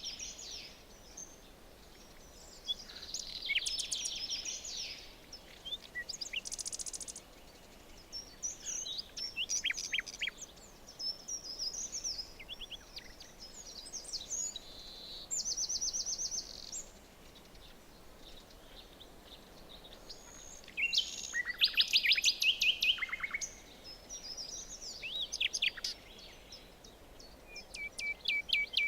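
Several songbirds singing and calling in bursts of quick chirps and rapid trills, with short gaps between, over a faint steady background hiss.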